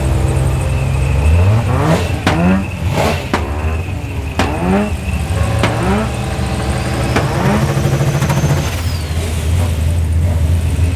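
Modified car engine idling, then revved in a run of about seven quick throttle blips, each one rising in pitch and dropping back, before it settles back to idle.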